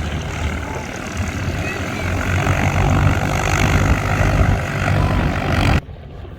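Propeller-driven aircraft flying over, a steady low engine drone that grows louder about two seconds in, then cuts off abruptly near the end.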